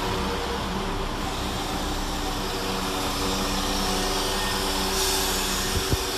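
Diesel engine of a Class 172 Turbostar diesel multiple unit running steadily at the platform. A hiss of air comes in about five seconds in, with a couple of light knocks near the end.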